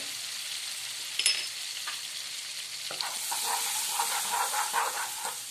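Cumin seeds sizzling in hot oil and melted butter in a nonstick pan, tempered as the base of the dish. A light click about a second in, then from about three seconds in a wooden spatula stirs the seeds and the sizzle grows louder.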